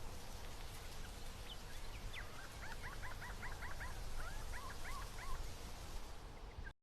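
A quick run of short, high chirping animal calls, about six to eight a second, over steady outdoor background noise.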